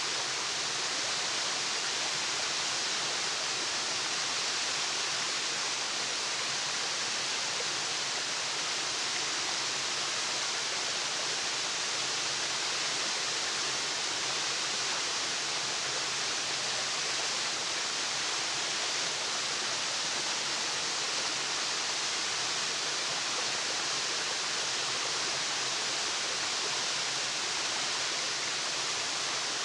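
Waterfall: a steady, unbroken rush of falling water, strongest in the hiss of spray and splash.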